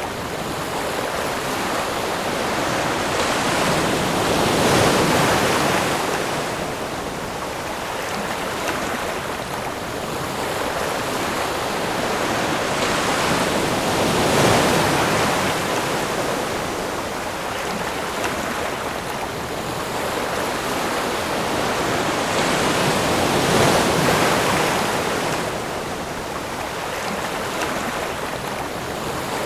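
Ocean surf: waves breaking and washing in, a continuous rushing that swells three times, about every nine to ten seconds, and falls back between.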